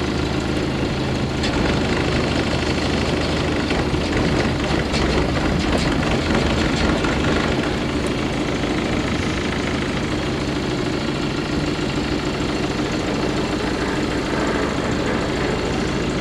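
Motor cruiser's inboard engine running steadily at low revs, a continuous low throb under a wash of background noise.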